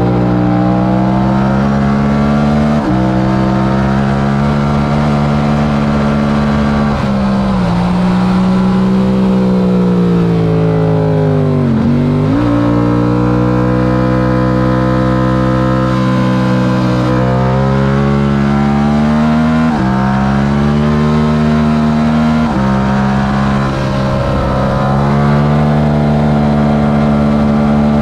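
Yamaha R7's 689 cc parallel-twin engine at full race pace: the pitch climbs and drops sharply at each upshift, about five times. About twelve seconds in the engine note falls away as the bike slows for a corner, then climbs hard again on the throttle.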